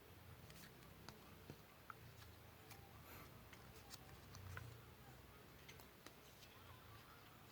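Faint, scattered small clicks and ticks of paper and craft tools being handled while a paper model is cut and assembled, over a low room hum.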